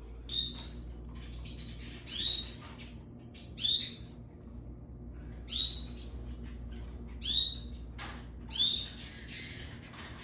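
Domestic canaries giving short, single chirping calls, six in all, one every second or two.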